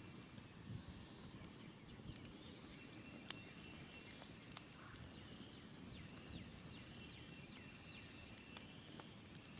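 Faint smoldering campfire with scattered sharp crackles and pops, and birds chirping in the background: a quick run of short falling chirps in the middle.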